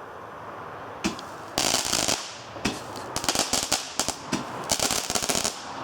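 A small garden firework going off: one sharp crack about a second in, then a rapid run of crackling bangs with hissing for about four seconds, which stops near the end.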